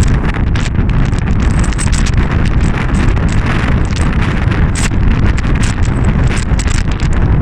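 Storm-force wind buffeting the microphone: a loud, continuous low rumble with constant crackling gusts.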